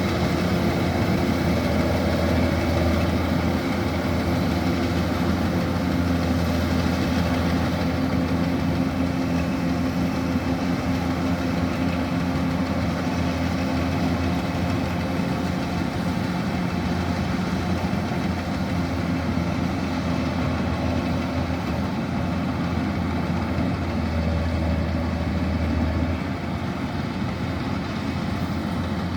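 Diesel engine of a Kubota DC-105X combine harvester running steadily with a deep drone, its lowest hum easing off a little near the end.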